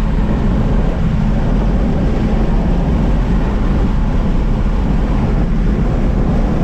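Dodge Challenger Hellcat's supercharged V8 and road noise heard inside the cabin as a steady low drone while cruising at highway speed.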